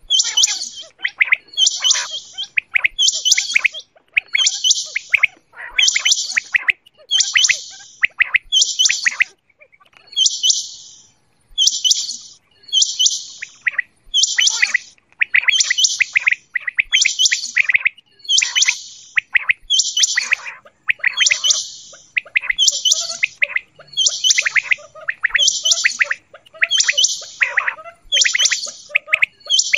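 Quail calling over and over at an even pace, roughly once a second, each call a short high-pitched chirping phrase.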